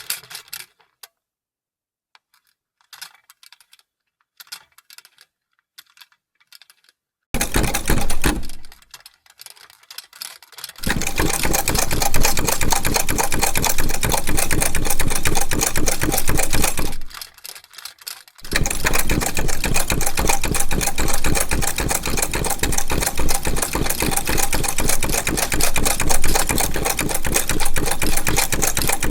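Vintage sewing machine stitching in runs. After a few faint clicks, there is a short start about seven seconds in, then fast, even stitching from about eleven seconds. It stops briefly a little after halfway and then runs on steadily.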